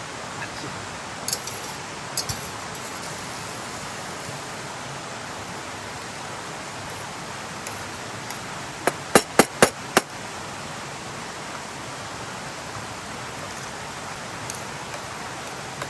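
Steady rush of running stream water, with two short clicks in the first few seconds and a quick run of five sharp knocks about nine seconds in.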